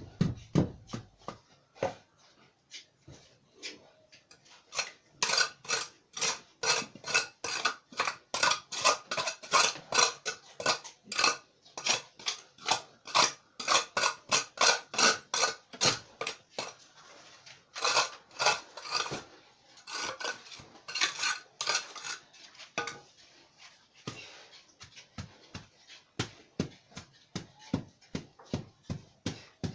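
A metal hand tool striking and scraping sand and the floor again and again, a quick run of clinking strokes several times a second, as sand is packed back into a hole dug by pigs in the pen floor. The strikes are densest through the middle and thin out near the end.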